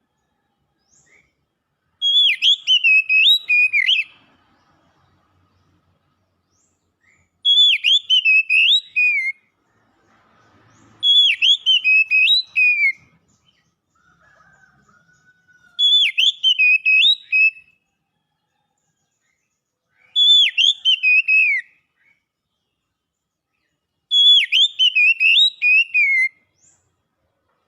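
Oriental magpie-robin (kacer) singing: six phrases of swooping whistled notes, each about two seconds long, repeated roughly every four seconds with pauses between.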